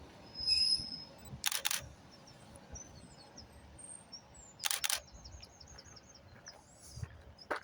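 Quiet outdoor platform ambience with small birds chirping faintly. Three sharp double clicks come about a second and a half in, near the middle and near the end.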